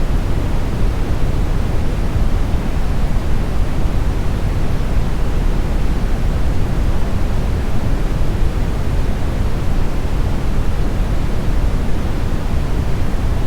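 Smoothed brown noise: a steady, unchanging synthetic noise, deep and rumbling, with most of its energy in the low end and the highs rolled off.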